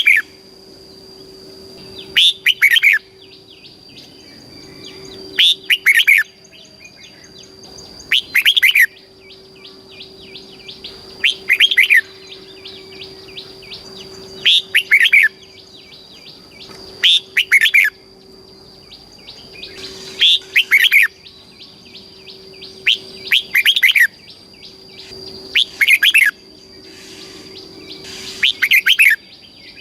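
Red-whiskered bulbul singing: a loud, short, warbling phrase repeated about every three seconds, about ten times. Faint chirps fill the gaps, over a steady high whine and a low hum.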